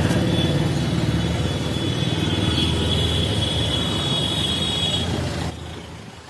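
Steady low rumble of a motor vehicle and road traffic, with a thin high whine over it, that drops off suddenly about five and a half seconds in.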